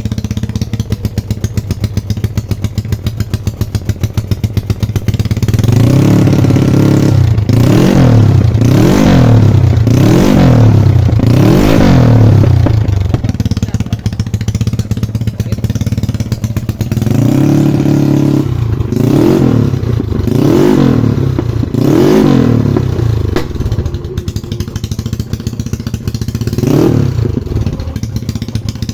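Yamaha Mio scooter's single-cylinder four-stroke engine running through a racing exhaust with a modified baffle. It idles with an even pulsing beat, then is revved in short throttle blips: about five in a row, a pause, four more, and one last blip near the end.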